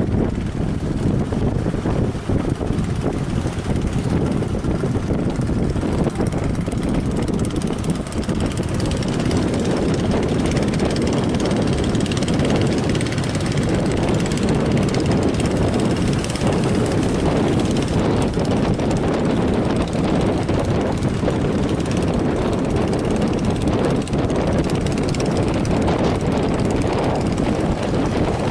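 Fishing-boat engines running in a steady drone, mixed with strong wind buffeting the microphone.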